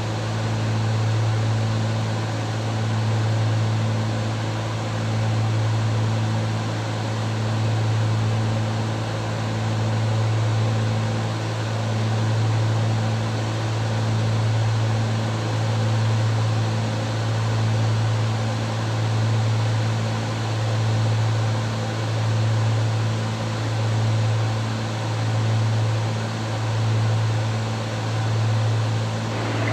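Cessna 310's twin piston engines and propellers droning steadily in cruise, heard from inside the cabin, with a low hum that swells and fades about every two seconds, the beat of two engines turning at slightly different speeds.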